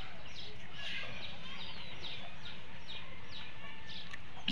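A bird calling over and over, short falling chirps about twice a second, over a steady low background noise.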